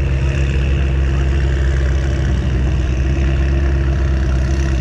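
A vehicle engine idling steadily at a low, even pitch, with no revving.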